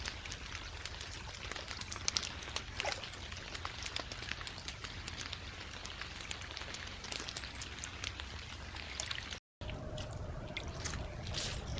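Small stream trickling and splashing, heard through a trail camera's microphone, with many small water ticks and a steady low hum underneath. The sound cuts out briefly about nine and a half seconds in, then resumes.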